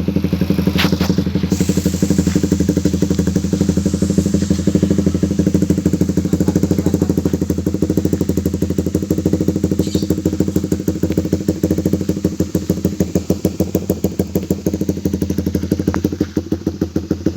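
Honda CB150R single-cylinder motorcycle engine idling steadily through an aftermarket PRO-LINER exhaust, with a fast, even exhaust pulse that grows more distinct near the end.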